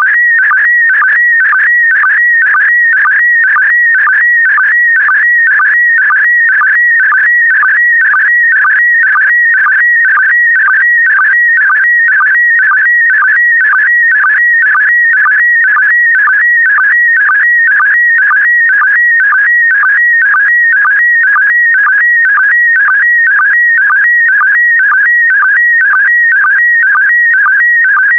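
Slow-scan TV signal in PD120 mode: high, warbling whistle-like tones that dip in a steady beat about twice a second, the line sync pulses of an image being sent scan line by scan line.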